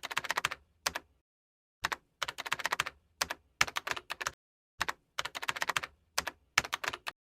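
Computer keyboard typing sound effect: quick runs of key clicks in three bursts, with dead silence between them.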